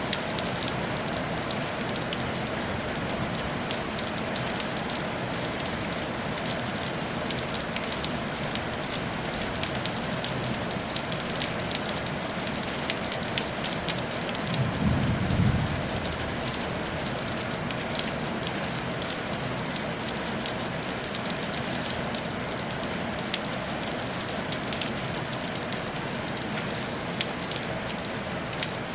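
Steady rain falling on a tile roof, a dense even hiss with fine patter of individual drops. About halfway through comes a brief low rumble lasting a second or two.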